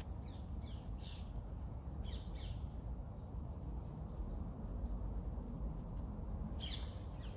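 Outdoor ambience: a steady low rumble with a few short bird calls scattered through it.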